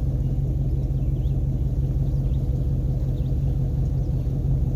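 1997 Rinker 232 cuddy cabin's engine running steadily under way, a low even rumble and hum. Faint, scattered high squeaks ride over it, which the owner takes for a squeaky belt.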